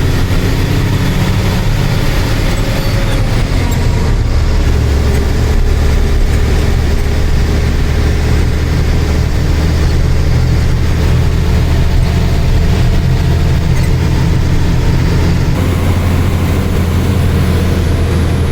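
Truck's diesel engine running steadily under way: a continuous low drone over road noise, heard from the cab.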